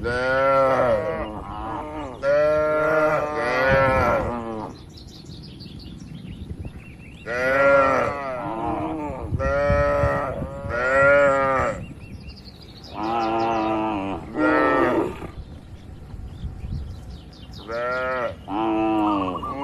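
Cattle mooing again and again: long, loud calls about every two or three seconds, with faint bird chirps in the gaps.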